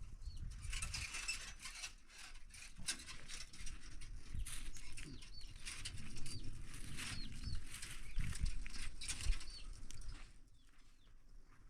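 Birds chirping in short, high calls over rustling and scattered light knocks.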